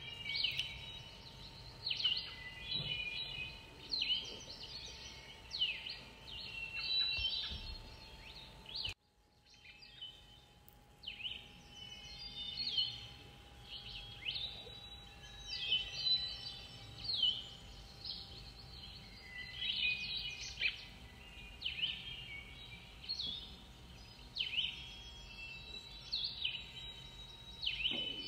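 Songbirds singing, repeating short phrases of quick downward-sweeping whistles every second or so. The sound cuts out briefly about nine seconds in. A faint steady hum runs underneath.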